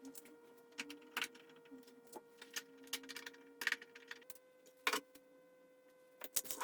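Scattered light clicks and taps, a few at a time, over a steady faint whine that steps up slightly in pitch about four seconds in.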